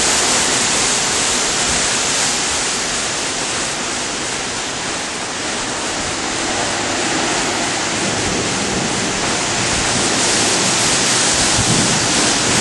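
Heavy storm rain pouring down in a steady, loud rush, swelling slightly near the end.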